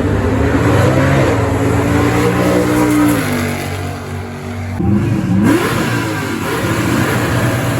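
A drifting car's engine revving hard, its pitch climbing and dropping as the throttle comes on and off, with a quick rising rev about five seconds in.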